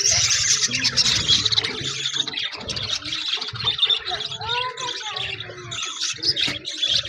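A flock of budgerigars chattering continuously: dense, high-pitched twittering with short chirps and squawks.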